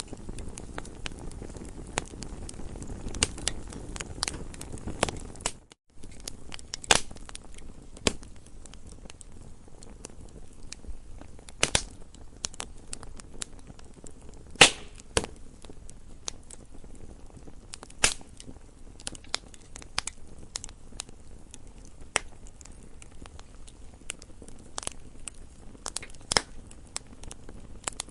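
Wood fire crackling, with sharp irregular pops and snaps over a soft low hiss. The sound drops out for a moment about six seconds in.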